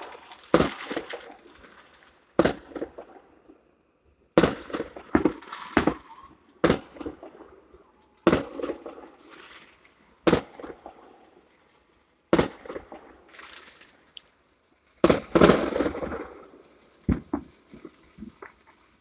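Fireworks going off: a string of sharp bangs at irregular intervals, some followed by crackling, with the loudest cluster of reports near the end.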